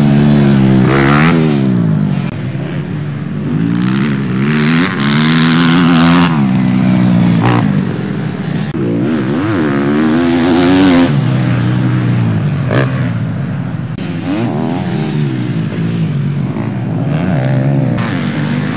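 Motocross bikes racing past, their engines revving up and down over and over as the riders work the throttle and shift gears, with more than one bike at once.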